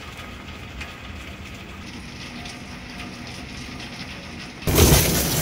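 A faint low rumble, then about four and a half seconds in, a sudden switch to loud, heavy rain hiss.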